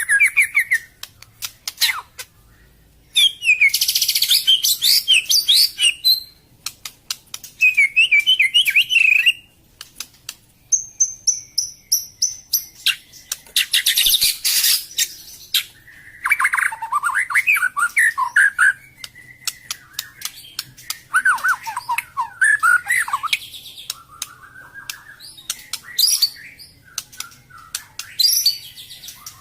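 Murai batu Medan (white-rumped shama) singing a varied song packed with mimicked phrases. Gliding whistled phrases alternate with dense, high-pitched chattering, with sharp clicks scattered throughout and short pauses between the phrases.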